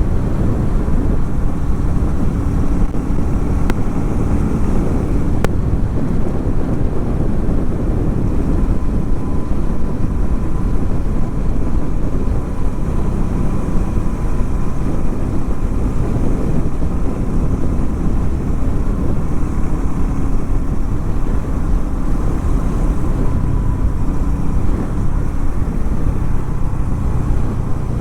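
Harley-Davidson X440 T's single-cylinder engine running steadily under way, with wind buffeting the microphone.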